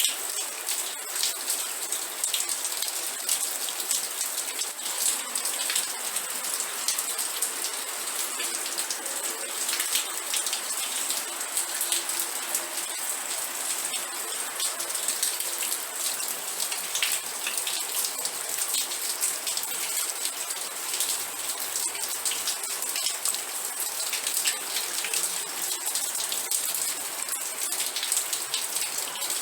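Steady rain, with many separate drop impacts ticking against a constant hiss.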